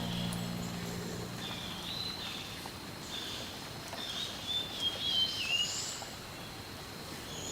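Small garden birds calling outdoors: a series of short high chirps, some rising, with a quick descending twitter about halfway through.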